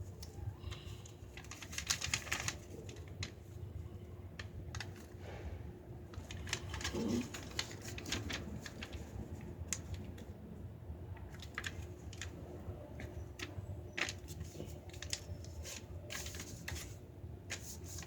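A sheet of paper being folded and creased by hand: scattered crisp rustles and clicks, over a low steady hum.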